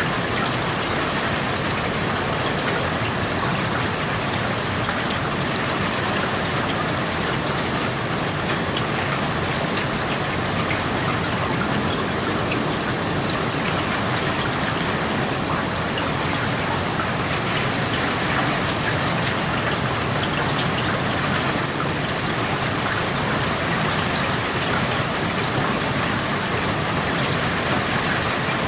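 Steady rain falling and pattering on surfaces, with many fine individual drop ticks, heard through an open window.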